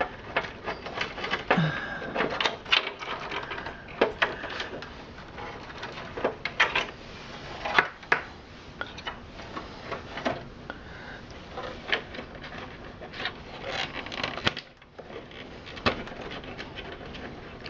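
Irregular clicks, knocks and rattles of plastic power connectors and cables being unplugged and handled inside a desktop computer case.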